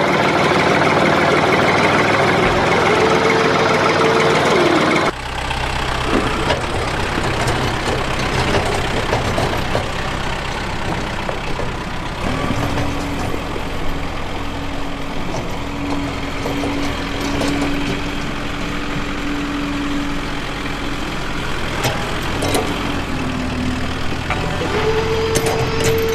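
A small engine running steadily, with the sound changing abruptly about five seconds in.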